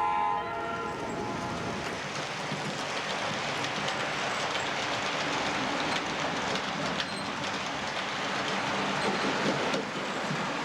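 A train running along the track: a steady rumble and rail noise, after a closing bit of music fades out about half a second in.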